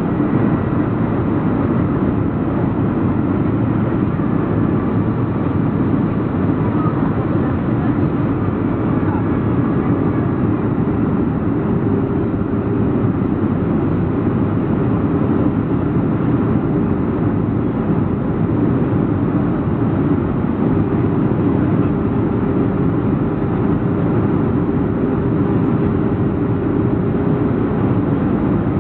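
Steady drone of a Boeing 737-400 airliner in flight: its CFM56 jet engines and rushing airflow, even and unbroken, with a faint steady hum running through it.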